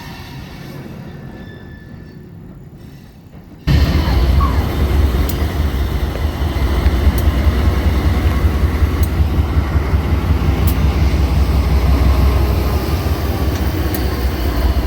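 A freight train running: a moderate rail noise at first, then about four seconds in a sudden jump to a loud, steady low rumble with a sharp click every second or two.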